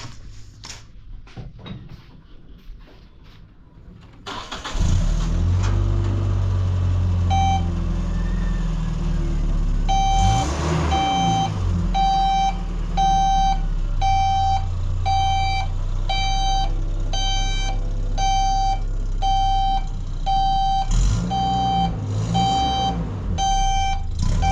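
A vehicle's engine starts about four seconds in and runs, and a few seconds later its reversing alarm begins beeping steadily, one high beep about every 0.8 seconds, as the vehicle backs up.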